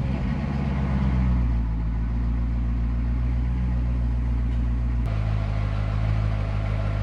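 2008 Chevrolet Corvette C6 V8 idling steadily just after starting; about five seconds in there is a click and the idle note changes.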